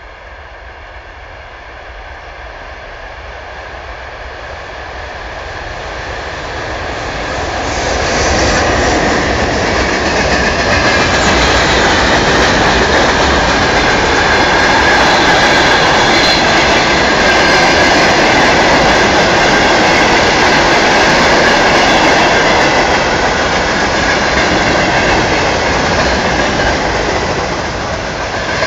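Freight train hauled by a VL80K twin-unit electric locomotive approaching, growing steadily louder over the first eight seconds or so, then passing close by with a loud, steady rolling noise and steady high-pitched tones.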